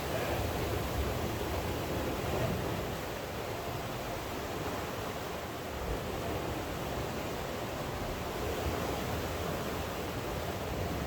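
Steady rain falling, an even rushing hiss that holds without a break.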